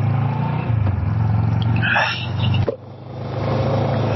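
Kawasaki ER-6f parallel-twin motorcycle engine running steadily under way, with wind noise over the helmet. About two and a half seconds in the engine note drops briefly, as when the throttle is eased off, then builds again.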